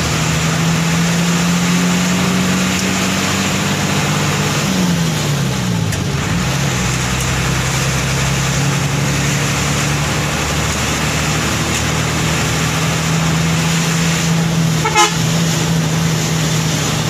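A heavy vehicle's horn sounding in a long, steady multi-tone blast. Its pitch drops about five seconds in, then holds steady again, over road noise. There is a sharp click near the end.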